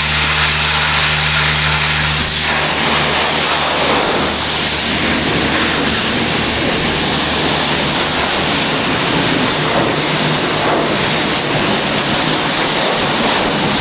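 High-pressure wash wand spraying water in a steady loud hiss, with a low hum under it that fades about two seconds in.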